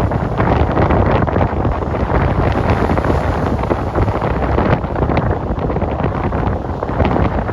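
Wind buffeting the microphone: a loud, dense rush of noise that rises and falls in gusts, heaviest in the low end, with no clear engine tone.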